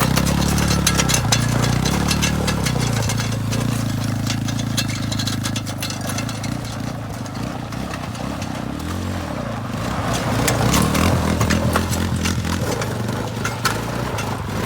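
Quad engine running and revving up and down as it is ridden around, with rattling clicks over it; it fades somewhat towards the middle, then grows louder again after about ten seconds.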